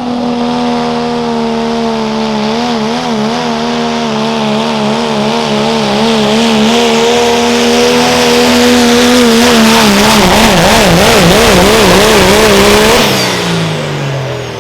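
Limited pro stock diesel pickup pulling a sled at full throttle, the engine held high under load with a rising rush of noise, its pitch wavering and then swinging widely up and down. About 13 s in the driver lets off and the engine pitch falls away.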